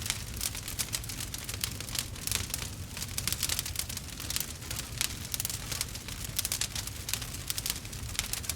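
Wood fire crackling and popping: a dense, irregular run of small sharp cracks over a steady low rumble of the burning fire.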